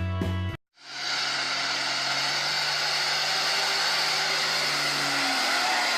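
Music cuts off under a second in; after a brief gap a vehicle engine runs steadily, a constant drone with a low hum under a broad hiss.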